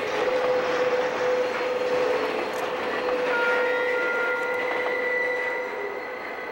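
Railcars of a passing freight-style train rolling by on steel rails, with a steady whine sounding over the noise of the wheels. The sound grows quieter near the end as the last car goes by.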